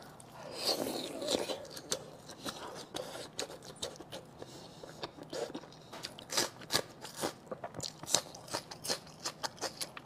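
Close-miked eating sounds: wet bites and chewing of sauce-coated pork large intestine stuffed with pig brain, full of short sharp mouth clicks and smacks. A few crunchy bites of raw green onion come around the middle.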